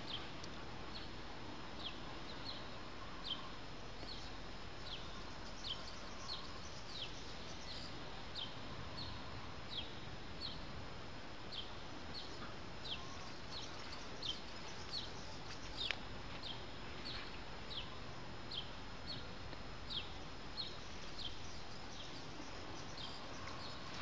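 A bird repeating one short, falling call note about every 0.7 s, over a steady outdoor hiss. A single sharp click comes about two-thirds of the way through.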